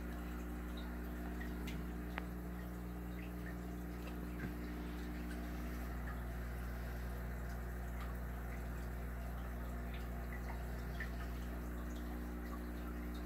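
Aquarium filtration running: a steady hum with water trickling and dripping, and a few small ticks and plinks.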